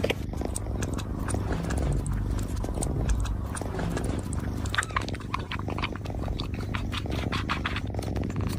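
Cat lapping milk: a run of small wet tongue clicks, several a second and busiest in the second half, over a steady low purr.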